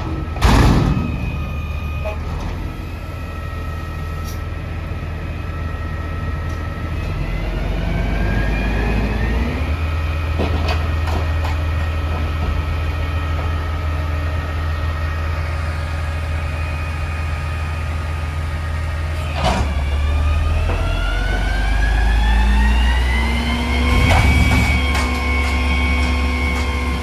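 Peterbilt 320 front-loader garbage truck running, its engine rising in pitch twice and holding at the higher speed, with a few sharp knocks.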